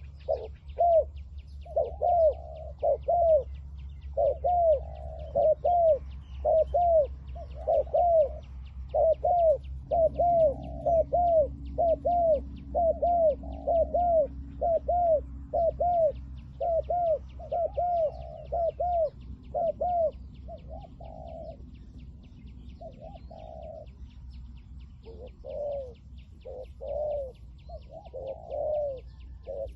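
Spotted doves cooing in rapid runs of short, arched notes, repeated phrase after phrase. The cooing grows softer and sparser in the last third.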